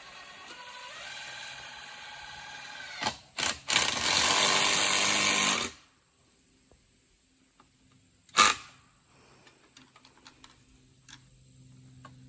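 Power drill driving a screw into an oak trunk: a steady motor whine that rises in pitch about a second in, two short bursts, then a louder, noisier two-second run as the screw bites into the hard wood. A single sharp click comes near the middle.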